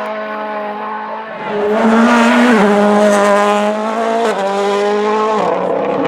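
Rally car engine at full throttle coming past. It gets louder about a second and a half in, and its note drops in steps three times as it shifts up through the gears.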